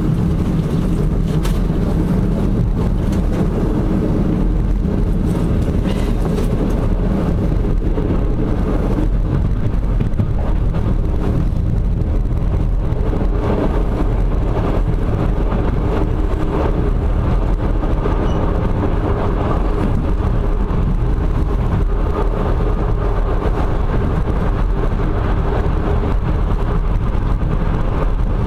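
Passenger train coach running along the track: a steady rumble of wheels on rails, heard from inside the coach by the window.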